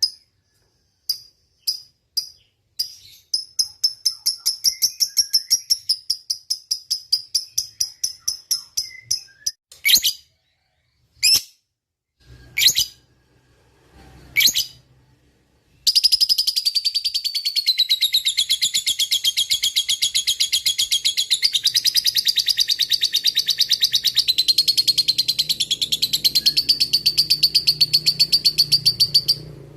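Lovebird calling: a run of short repeated high chirps, a few single sharp calls, then about halfway through a long unbroken rapid chattering trill, the 'ngekek', held for roughly thirteen seconds before it stops near the end.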